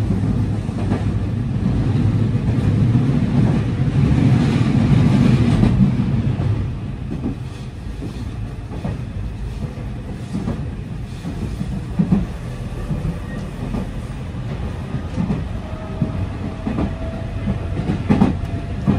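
Cabin noise of a JR local electric train running at speed: a steady low rumble of wheels on rail with clickety-clack at the rail joints. The rumble is louder for the first several seconds, then settles lower, with occasional sharper clicks.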